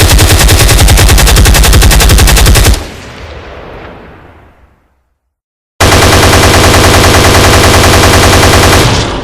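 Automatic gunfire sound effect: two long bursts of rapid machine-gun fire, each about three seconds, the first fading out over about two seconds and the second cut off near the end.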